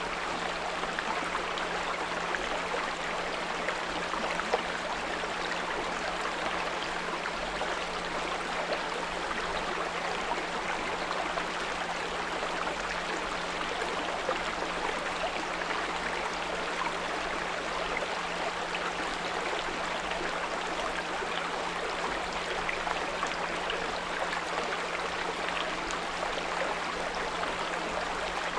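Small brook babbling steadily, with a steady low 174 Hz pure tone laid underneath the water sound.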